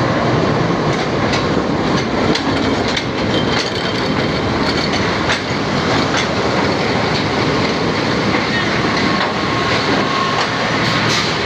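Passenger train running on the rails: a steady rumble with the wheels clicking irregularly over rail joints.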